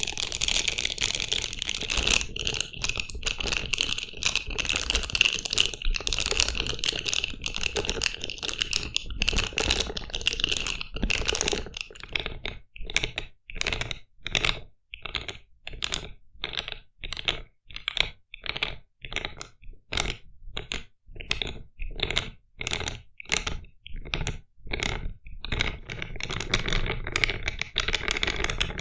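ASMR trigger sounds made by hand on an unseen object: a dense run of fast, crackly clicking, which from about twelve seconds in breaks into separate short strokes, roughly one or two a second, and turns dense again near the end.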